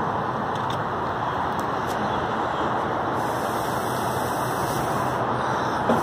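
Steady, even hiss of road traffic.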